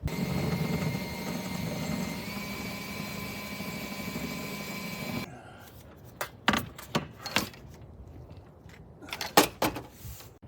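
Electric drill running for about five seconds as it drills holes in a solar panel's frame, its whine stepping slightly higher about two seconds in, then stopping abruptly. Several sharp metallic clinks follow.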